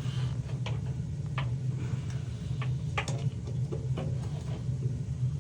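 Irregular light clicks and taps of hand tools and small metal parts being worked on a gas water heater, about one a second, over a steady low hum.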